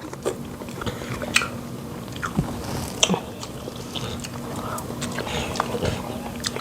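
Close-up eating sounds: wet chewing and mouth clicks as fish and fufu are eaten, with a few sharper clicks about a second and a half in and at three seconds. A faint steady hum sits underneath.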